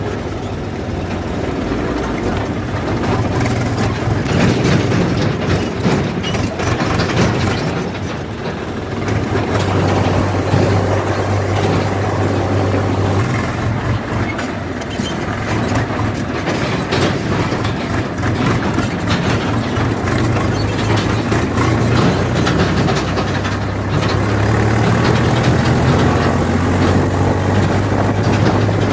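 Tractor engine running steadily on the move, a low hum with frequent knocks and rattles over it.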